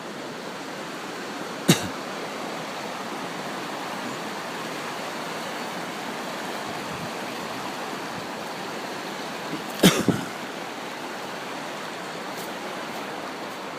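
Steady rushing of river water over rapids, an even hiss with no rhythm. Two short knocks cut through it, about two seconds in and again near ten seconds.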